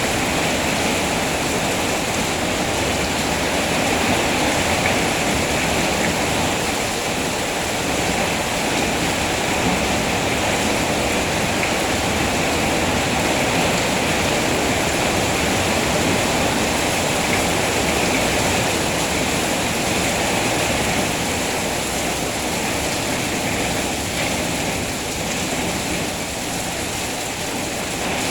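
Steady heavy rain falling, a continuous dense hiss with no breaks.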